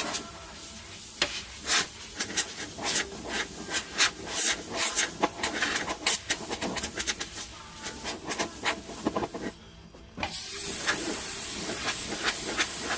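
Oxy-MagneGas gas-welding torch hissing while sheet steel and steel welding rod pop and crackle sharply and often in the heat. About ten seconds in the sound drops out briefly, then a steadier, louder hiss takes over.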